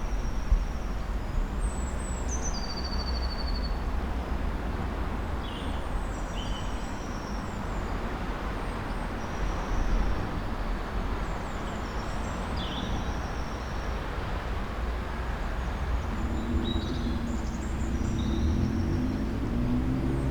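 Steady rumble of distant road traffic and machinery, with small birds giving short high chirps and calls scattered throughout. Near the end a low engine drone of passing cars rises over the rumble.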